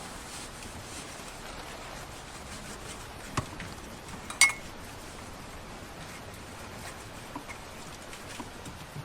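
Steady patter of heavy rain on the van, with two sharp clinks like dishware being handled about three and a half and four and a half seconds in, the second louder and briefly ringing.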